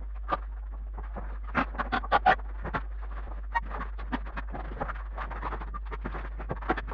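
Sped-up sounds of house renovation work: a rapid, irregular jumble of short knocks, clicks and scrapes over a steady low hum, with a cluster of louder knocks about two seconds in.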